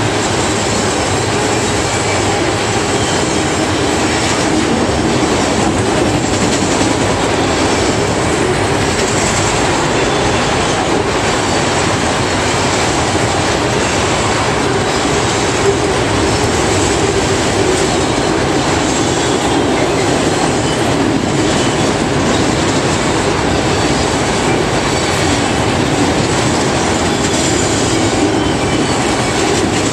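Freight train of enclosed autorack cars rolling past: a steady rumble and rattle of steel wheels on rail, with repeated clicks as wheel sets cross rail joints.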